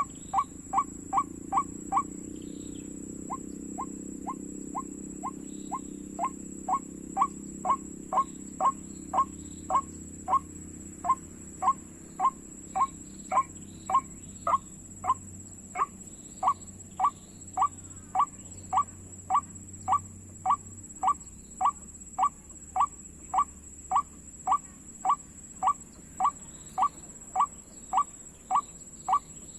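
White-breasted waterhen (ruak-ruak) calling: a monotonous series of short, sharp notes, about two a second, pausing briefly about two seconds in, the repetitive call trappers use to lure the bird.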